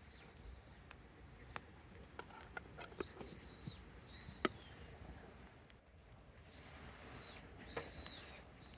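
Campfire crackling, with irregular sharp pops, one louder about four and a half seconds in. Several thin high whistles, each under a second, sound over it.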